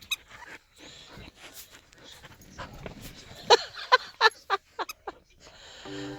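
A dog giving a quick run of about six short, high yips about halfway through.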